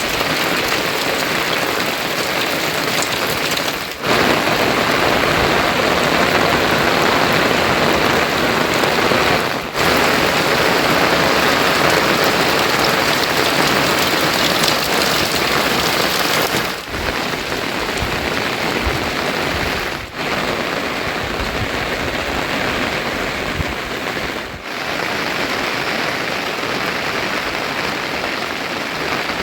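Heavy monsoon rain falling as a dense, steady rush, with the level dipping briefly five times.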